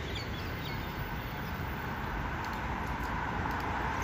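Steady outdoor background noise with a hum that grows slowly from about halfway through as a Transperth electric multiple-unit train approaches the platform.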